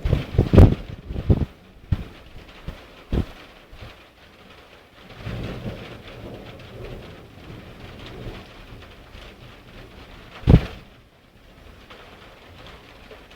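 Thunderstorm: thunder crackles and rumbles loudly in the first second and a half, over steady rain. A short, sharp thump or crack comes about ten and a half seconds in.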